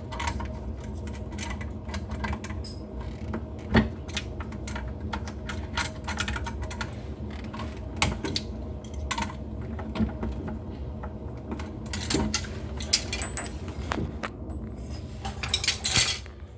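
Irregular metallic clicks and scrapes of two pliers gripping and turning the faucet's supply-line fittings as they are tightened, with a few louder knocks.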